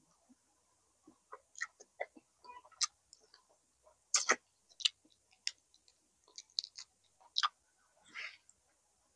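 Close-up eating sounds: a person chewing, with wet mouth clicks and small crunches coming in short, separate bursts.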